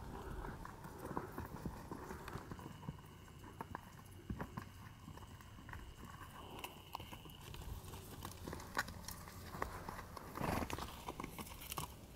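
Hooves of a wild horse walking close by, irregular clopping steps, with a denser, louder patch of steps about ten seconds in. A faint steady high tone runs for a few seconds in the middle.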